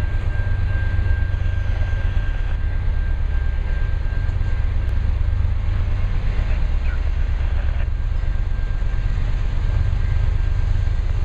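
Steady low rumble of a diesel freight train approaching out of sight, with a faint high whine that drops away about five seconds in and comes back near the end.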